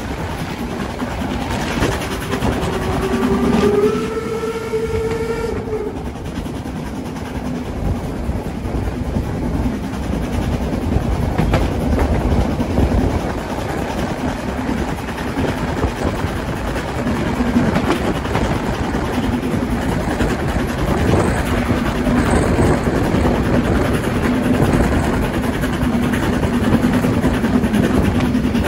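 Harz narrow-gauge steam train on the move. Its whistle sounds for about four seconds near the start, rising slightly in pitch, then the train runs on with a steady rumble and rail clatter.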